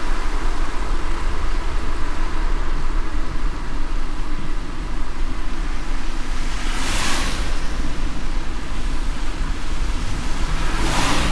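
Car driving in light rain: a steady low road-and-engine rumble under a hiss, with a brief rushing swell about seven seconds in and another near the end.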